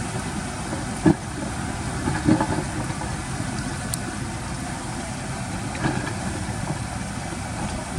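Heavy earthmoving machine's engine running steadily, with a few short knocks, the loudest about a second in.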